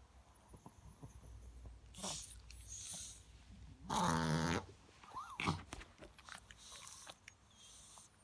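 Chihuahua reverse sneezing: a series of separate forced, noisy gasps through the nose. The loudest is a pitched, half-second one about four seconds in.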